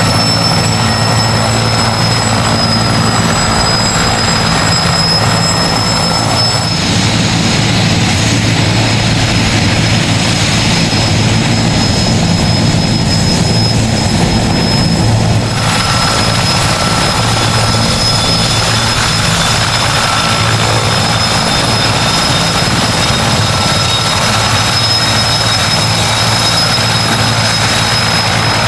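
Sikorsky S-64 Skycrane helicopter running loud and steady: the high whine of its twin turboshaft engines over the low hum of the rotor.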